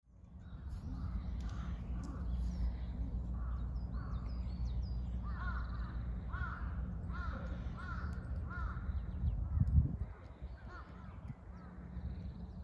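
A bird calling over and over, loudest in a run of five calls in quick succession about halfway through, with fainter, higher chirps from small birds. Underneath runs a steady low rumble of wind on the microphone, with a single bump near the end.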